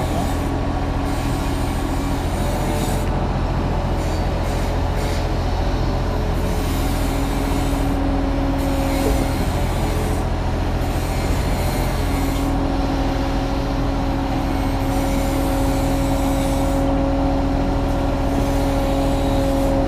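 Kubota U35-3 mini excavator's diesel engine running steadily under work, with a hydraulic whine that rises in and drops out several times as the arm and bucket are worked.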